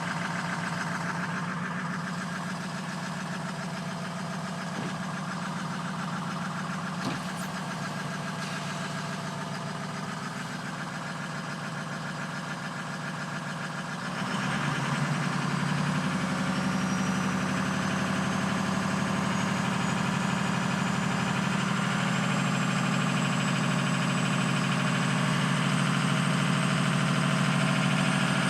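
Ford 6.0 Powerstroke turbo-diesel V8 idling through its stock exhaust. About halfway through the sound steps up and gets louder, and a faint high whine then slowly rises. The owner says this engine surges and idles rough at random, and he suspects the ICP sensor.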